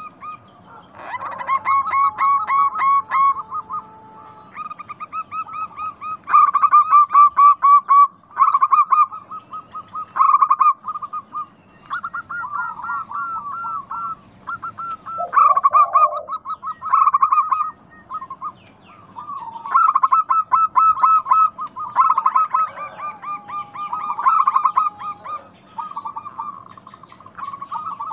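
Zebra doves (perkutut) cooing, several birds overlapping in rapid staccato phrases of short repeated notes with brief pauses between them.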